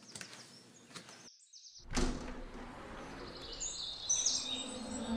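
Birds chirping over a quiet outdoor ambience. The sound drops out briefly about a second and a half in, then returns suddenly, and steady low tones begin to build near the end.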